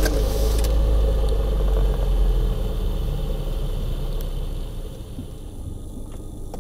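Daewoo Lanos 1.5-litre four-cylinder engine idling at about 1000 rpm, heard from inside the car. A deep low rumble is strongest in the first couple of seconds and fades away by about five seconds in.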